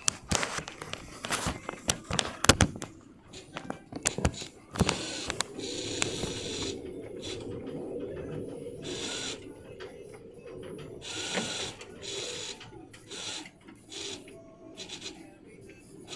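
Inside a motor yacht's cabin in choppy water: a run of sharp clicks and knocks from loose fittings, then a steady engine hum with short rushes of noise every second or two.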